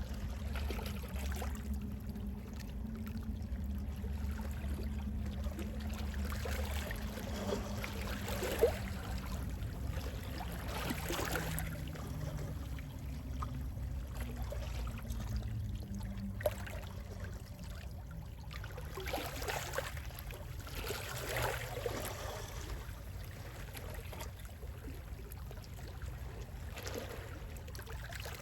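Gentle sea waves washing in, with louder swells of wash every few seconds over a low, steady rumble. A single sharp click about a third of the way through is the loudest moment.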